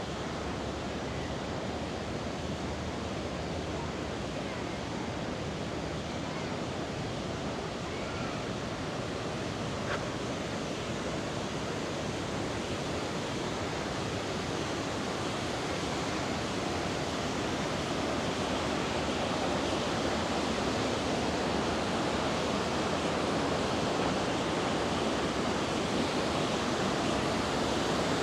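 River water rushing over rocks, a steady hiss that grows a little louder over the second half.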